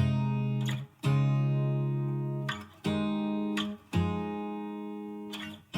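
Background music: acoustic guitar playing held, strummed chords, a new chord about every one to two seconds, with no voice yet.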